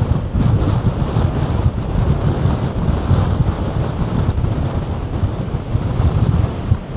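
Heavy wind buffeting a DJI Mic 2 wireless clip-on microphone: a loud, deep rumble that swells and dips with the gusts, so strong that the audio is barely usable.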